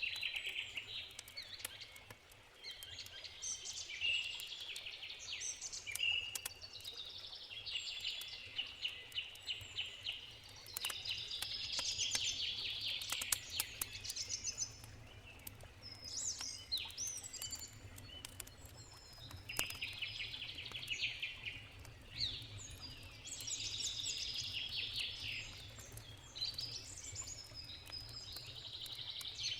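Songbirds singing in short, busy phrases that recur every couple of seconds, over the scattered crackle of a campfire and the low, steady rush of a river.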